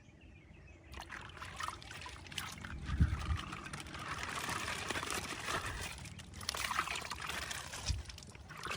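Thin plastic bag crinkling and rustling as it is handled and opened, a dense crackle that starts about a second in, with a couple of dull knocks from handling.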